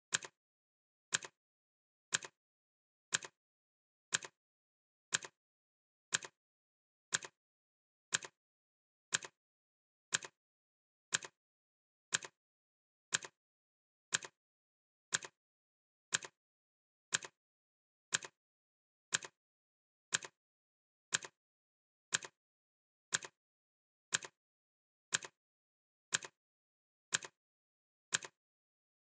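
Clock ticking sound effect: a crisp tick once a second, evenly spaced, with silence between the ticks.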